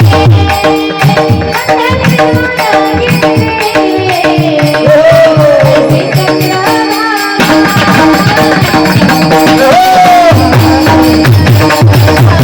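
Marathi devotional song music: a hand drum beats a quick rhythm under held melodic tones. The drum drops out for about three seconds in the middle, leaving the sustained notes and a short sliding melody, then comes back in.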